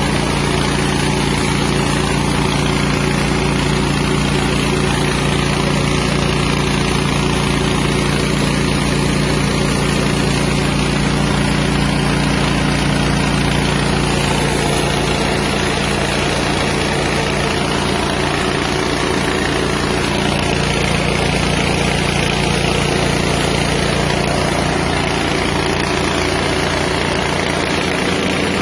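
Small rice milling machine driven by a 6.5 hp engine, running steadily with an even engine drone and the noise of the milling mechanism.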